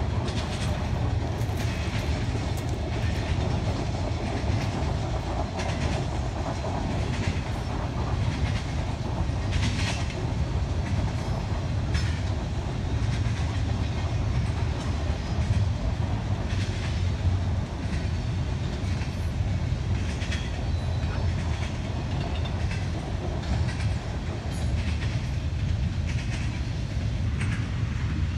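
Double-stack intermodal freight train rolling past: a steady low rumble of the cars, with scattered clicks of the wheels running over the track.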